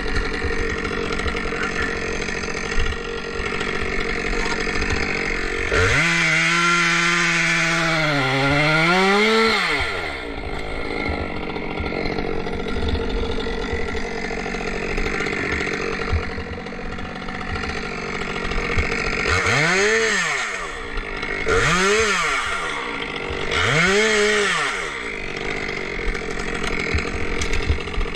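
A two-stroke chainsaw idling, revved up once and held high for about four seconds, then given three short revs about two seconds apart near the end.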